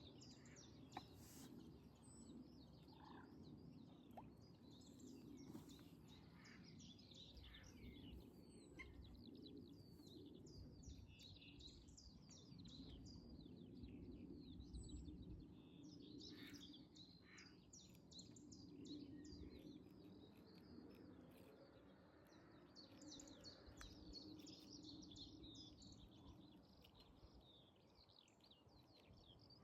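Faint birdsong: many quick chirps and trills from small birds, over a low, steady background rumble.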